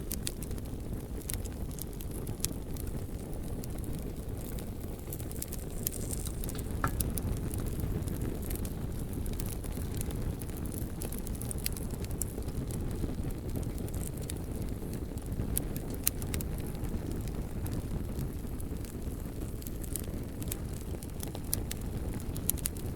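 Bonfire burning: a steady low roar of flame with frequent sharp crackles and occasional louder pops from the burning logs.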